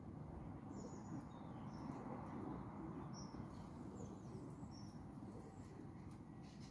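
Faint, short, high chirps from small birds, about one a second, over a steady low background rumble.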